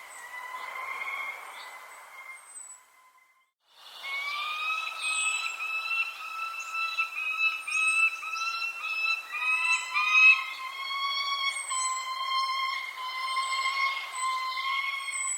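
Birds calling: short, high, falling chirps over a continuous, slightly wavering whistled tone with overtones, broken about halfway into a run of quick repeated notes. The sound drops out briefly about three seconds in, then resumes.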